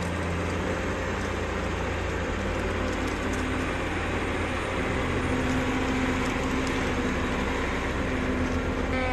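Heavy forestry machine running steadily, its engine giving a constant low drone.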